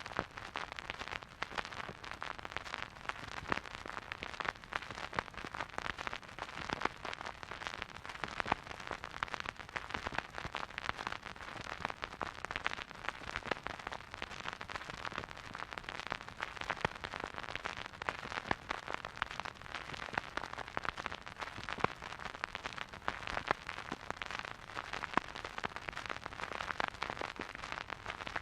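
Vinyl record surface noise from a silent groove: steady hiss with dense, irregular crackles and pops.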